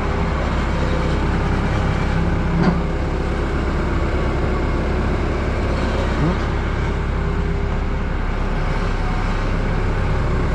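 A vehicle engine idling steadily, with a short clunk about two and a half seconds in and a brief squeak around six seconds.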